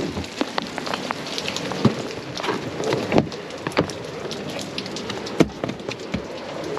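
Heavy rain falling, a steady hiss with irregular sharp taps and knocks of drops striking nearby surfaces.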